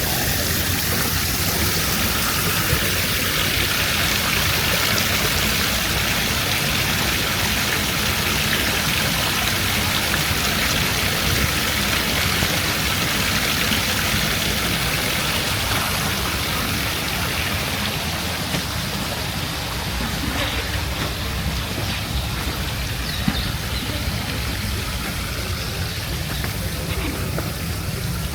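Steady rushing and splashing of water, easing a little in the second half.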